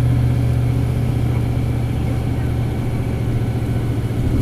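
Isuzu Cubic city bus's 8PE1-S V8 diesel engine running on the road, heard from inside the bus: a steady low engine hum that slowly eases in loudness.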